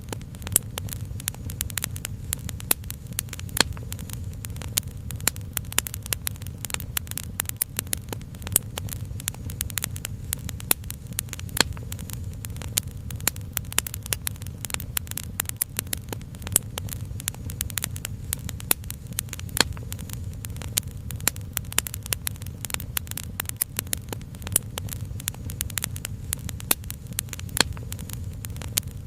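Fire crackling, with dense, irregular sharp pops and snaps over a steady low rumble.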